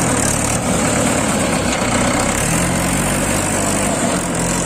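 Heavy diesel engine running steadily under a broad noise; its note fades about a second in and comes back strongly after about two and a half seconds.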